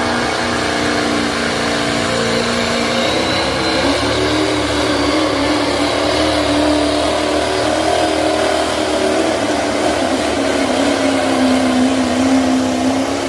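Pulling truck's engine running hard at high revs under load as it drags the weight sled down the track; the engine note shifts about three to four seconds in and then holds steady, cutting off abruptly at the end.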